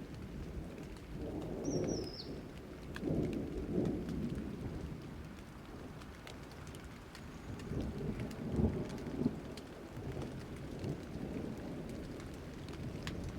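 Steady rain with thunder rumbling in low swells, twice swelling up in the first few seconds and again about eight seconds in, and scattered drip ticks throughout. A brief high, falling chirp sounds about two seconds in.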